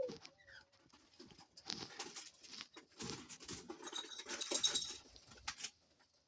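Small egg-shaped bell toys rattling and jingling in irregular bursts as pet birds tussle over them, busiest and loudest about four to five seconds in.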